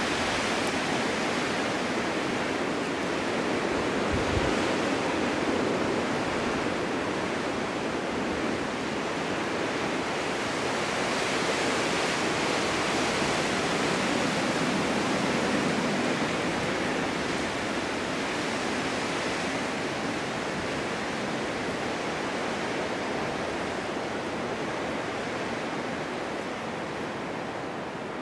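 Snowstorm wind blowing steadily, a dense rushing noise that swells and eases and drops a little toward the end.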